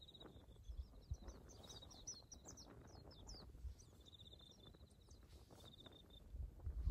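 Birds singing faintly: a short high trill repeated several times, and from about a second and a half in a quick run of rising and falling chirps, over a patchy low rumble.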